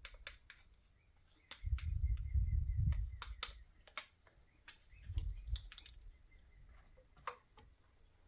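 Irregular sharp clicks and taps, with two spells of low rumble: one from just under two seconds in to about three seconds, and a shorter one about five seconds in.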